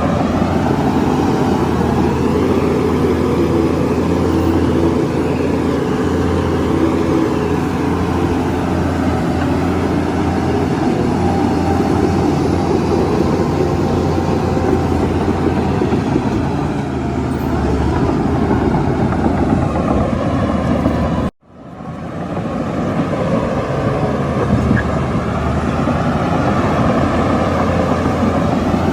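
Heavy diesel earthmoving machinery running steadily under load. About two-thirds of the way through, the sound cuts out abruptly and then fades back in.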